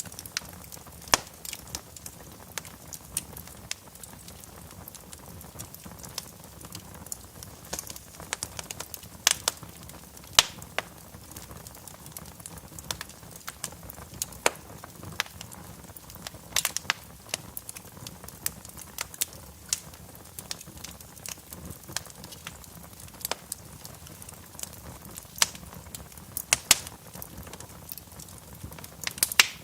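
Wood fire burning in a fireplace, crackling with irregular sharp pops, some much louder than others, over a steady low hiss.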